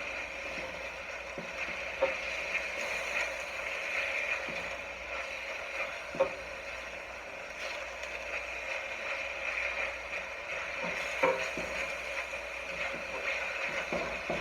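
Chopped onion, pepper, garlic and ginger sizzling steadily in hot olive oil in a wok turned up to high heat. A few short, sharp knocks break in now and then.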